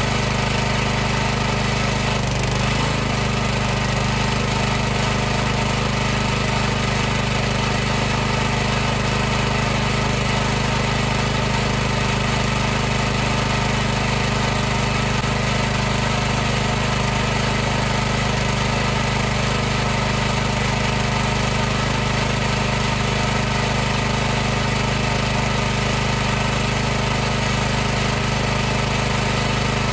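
High-pressure washer running continuously, its motor and pump making a loud, steady hum with strong low tones over a wide hiss, unchanging in speed.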